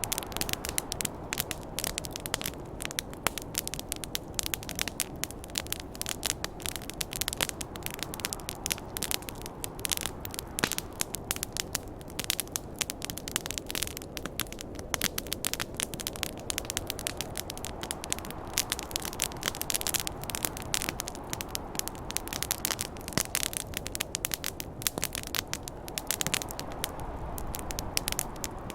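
Campfire crackling with dense, irregular sharp pops and snaps over a steady low rushing noise of snowstorm wind.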